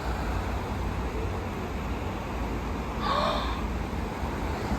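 Outdoor background noise with wind rumbling on the microphone, and one short high-pitched chirp-like sound about three seconds in.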